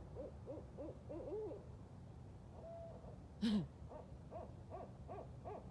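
Several barred owls calling together in rows of short, arched hoots. About three and a half seconds in comes one louder, downward-sliding call, followed by a quicker run of short hoots.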